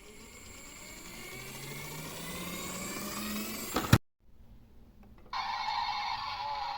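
Toy garbage truck sounds: a whine rising steadily in pitch for about four seconds, cut off by a sharp click. After a second's pause a steady electronic tone starts.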